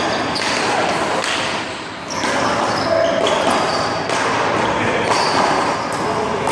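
Small rubber handball being hit by hand and smacking off the wall and pavement during a one-wall handball rally: a series of sharp smacks roughly a second apart over steady background noise.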